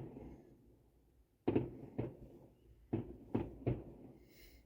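Fireworks going off, heard muffled from inside a car: about five dull bangs in quick, irregular succession, starting about a second and a half in.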